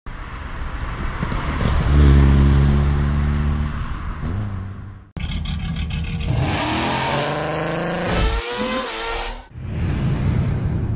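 VW Golf 4 2.0 four-cylinder engine and exhaust, heard in three edited driving clips: a steady drone, then revving with the pitch rising through the gears, then more engine noise. The clips are joined by abrupt cuts about five seconds in and again near the end.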